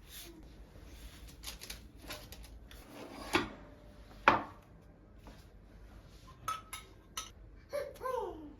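Dishes and cutlery clinking and knocking as they are handled, with two louder knocks around the middle and a quick run of sharp clinks later on. A brief vocal sound comes near the end.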